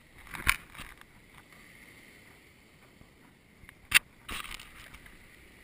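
Two sharp knocks about three and a half seconds apart, the second louder, with a short rustle right after it, against a quiet hiss.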